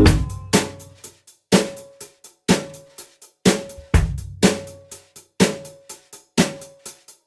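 Music: a drum kit playing a steady beat on its own, kick and snare hits alternating about twice a second. A fuller guitar part cuts out right at the start.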